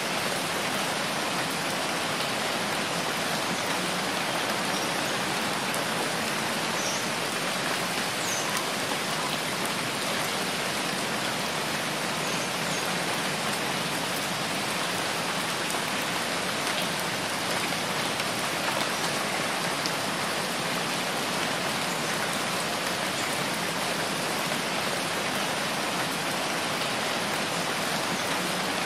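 Steady rainfall: an even, unbroken hiss of rain with no change in level.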